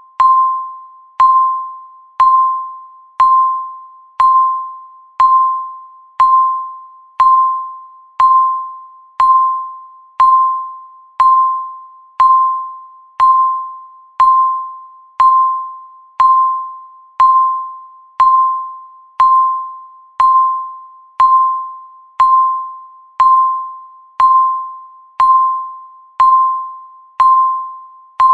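Countdown timer beeping once a second: a single-pitched electronic beep that starts sharply and fades away, repeating evenly.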